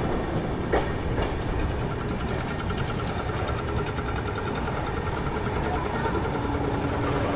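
Passenger train running at speed, heard from an open coach door: a steady rumble and rattle of wheels on rail. About a second in, two last wheel clacks from a train passing on the next track. A faint steady hum starts near the end.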